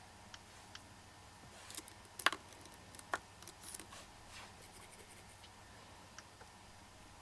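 Scattered small clicks, taps and brief brushing rustles, loudest about two seconds in, from handling makeup brushes and an eyeshadow palette.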